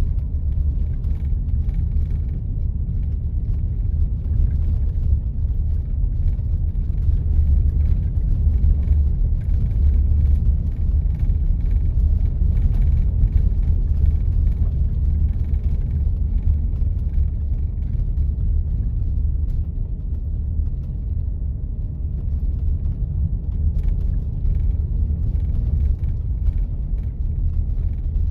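A 4x4 driving on a snow-covered road: a steady low rumble of engine and tyres, a little louder about a third of the way through.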